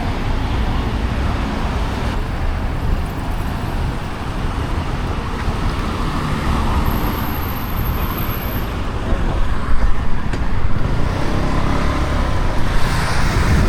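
Road traffic noise: a steady rumble of vehicle engines and tyres, getting louder about ten seconds in.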